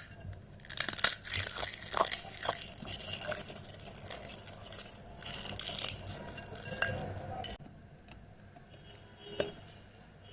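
Crisp food crunching and crackling, with light clinks of dishes, in a dense run that stops suddenly about three-quarters of the way through; one lone click near the end.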